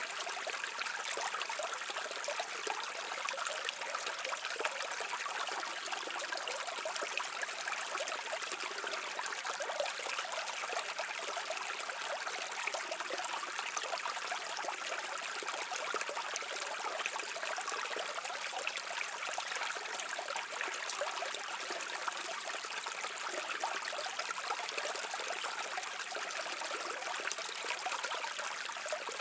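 Brook water running and trickling over rocks, a steady babble.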